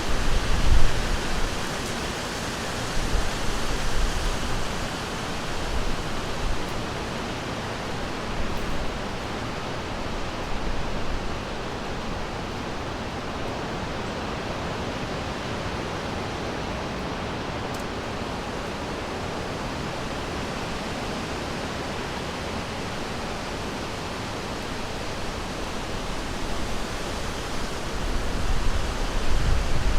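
Steady rush of flowing river water, with low rumbling swells in the first few seconds and again near the end.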